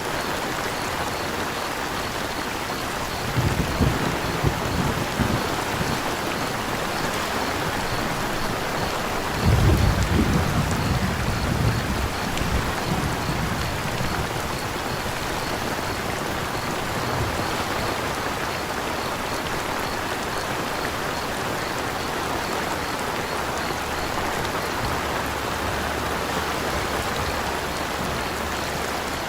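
Steady rain with two low thunder rumbles, about four seconds and ten seconds in, the second louder. Faint regular cricket chirps sound high above the rain.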